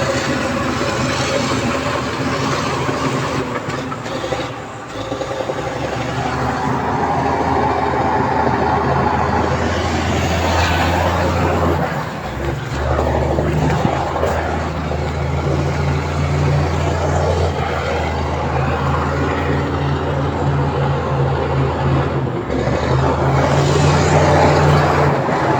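Heavy diesel earthmoving machine working: a steady, loud low engine drone, with a brief dip about five seconds in.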